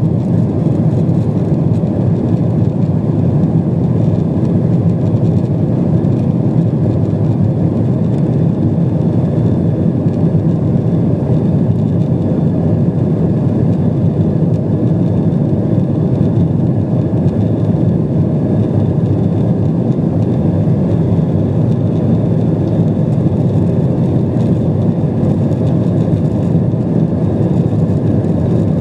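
Steady cabin noise inside an ANA Boeing 777-200 in flight: a loud, even rumble of airflow and engines that does not change.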